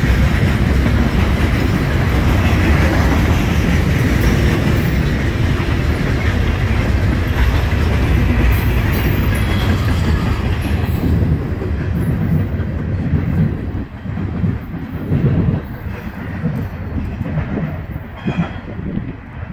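Loaded or empty coal cars of a freight train rolling past, a steady rumble of wheels on rail with clickety-clack over the joints. About eleven seconds in the sound thins and drops away into scattered wheel knocks as the train moves off.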